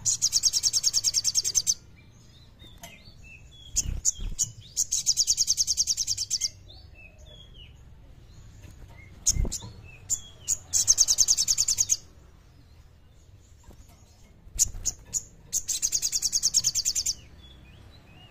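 A sogon bird singing: four bursts of a fast, high, rattling trill, each about a second and a half long and about five seconds apart, with sharp chip notes between them. A few dull low thumps about four and nine seconds in.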